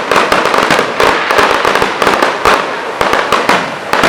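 Fireworks display: a dense, unbroken run of cracks and bangs from bursting shells, many a second.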